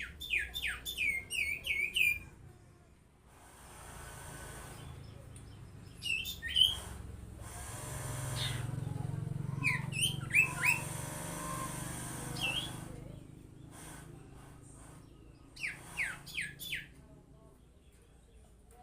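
A common iora (sirtu) singing in several bursts of quick, downward-sweeping whistled notes, about five in the first two seconds and more bursts around 6, 10 and 16 seconds in. A steady low background rumble sits beneath the middle bursts.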